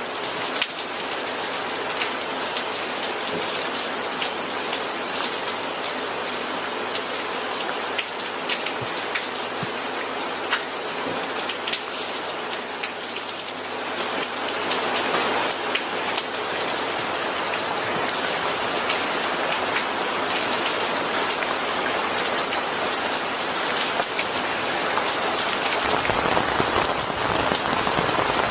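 Steady rain falling on a surface, an even hiss with many individual drops ticking, growing a little heavier partway through.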